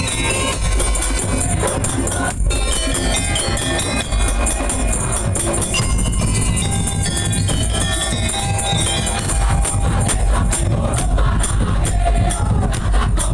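Madurese daul band playing: heavy drums under fast, dense high percussion strikes, with a melody line on top.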